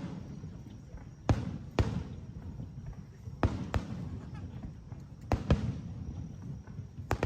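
Aerial fireworks bursting: sharp bangs, mostly in close pairs every couple of seconds, each followed by a low rumbling echo.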